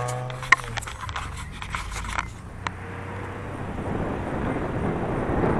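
A car engine's note fades out about half a second in, followed by a few sharp clicks, then a rush of noise that grows steadily louder towards the end.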